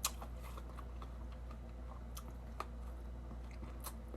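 Close-up chewing of mango with bagoong: faint wet mouth sounds with a few sharp crunching clicks, one right at the start, one about two and a half seconds in and one near the end. A low steady hum lies underneath.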